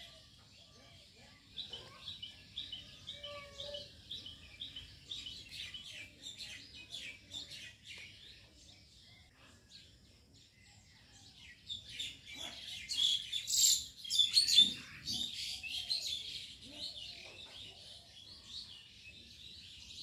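Small songbirds chirping: an even run of short repeated chirps, then a louder, busier flurry of chirps a little past the middle.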